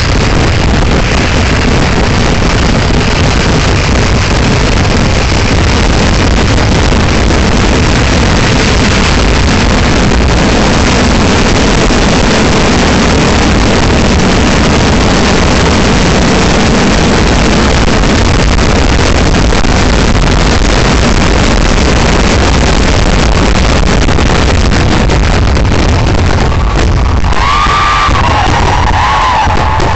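Massive fireworks barrage: firecracker bursts going off so fast and densely that they merge into one continuous, very loud noise. Near the end, crowd whoops and cheers with wavering pitch rise over it.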